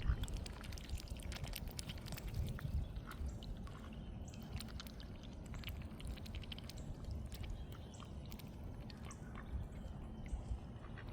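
Ducks feeding on bread at the water's surface: a run of small splashes, drips and quick bill clicks, over a steady low rumble.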